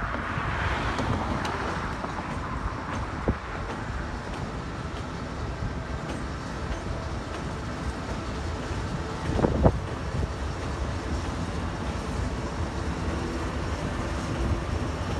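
Norfolk Southern diesel locomotives passing at the head of an intermodal train, with the engines loudest in the first couple of seconds, then the steady rumble of double-stack container cars rolling by. A sharp knock comes about nine and a half seconds in.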